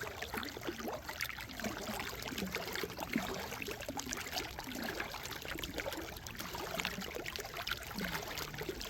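Faint water lapping and trickling, with scattered small clicks and knocks.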